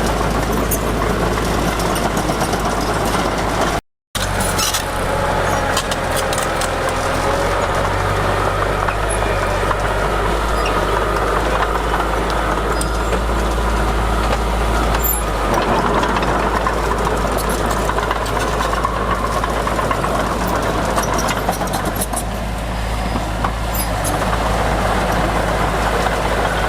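Heavy diesel earthmoving machinery running steadily, with a whine that rises and falls and scattered metallic clicks. The sound cuts out for a moment about four seconds in.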